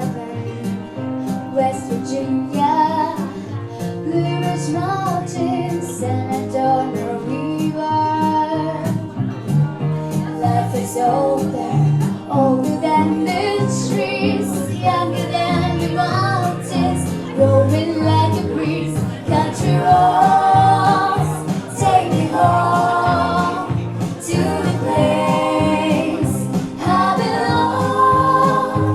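Music: female voices singing a song over instrumental accompaniment, the singing fuller and louder in the second half.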